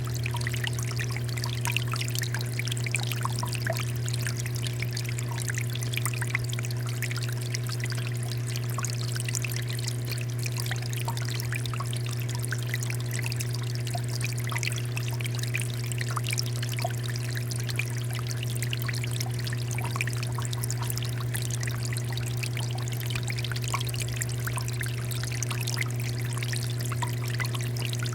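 Water fountain flowing steadily, water pouring and splashing in a continuous trickle, with a steady low hum underneath.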